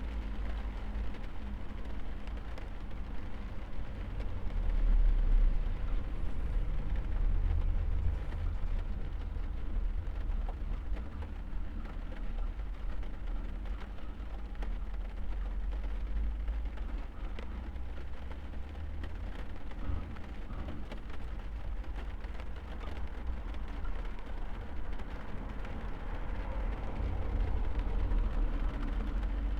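Steady rain falling on a car, heard from inside the cabin: an even hiss with scattered drop hits over a constant deep rumble.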